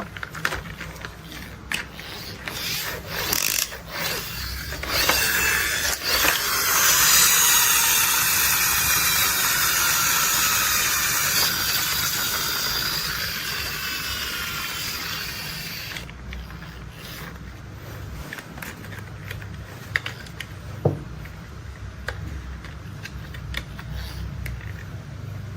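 Plastic toy construction vehicles being handled: scattered clicks and ratcheting of their moving parts. A loud whirring grind with shifting pitch runs from about six seconds in and cuts off suddenly, then the clicks go on more quietly.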